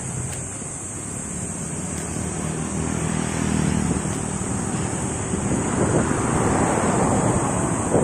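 Wind rushing over the microphone while riding a bicycle on the road, growing louder from about five seconds in, with a steady high-pitched hiss.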